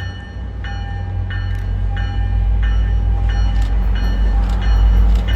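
MBTA commuter train with its diesel locomotive coming through, a deep rumble growing louder as it approaches. Over it, a warning bell dings steadily about one and a half times a second.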